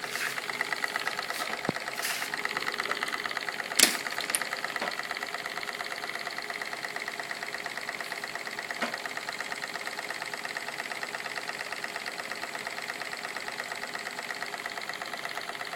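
Small piston-valve steam engine running steadily, with a rapid, even mechanical beat. A single sharp click a little under four seconds in.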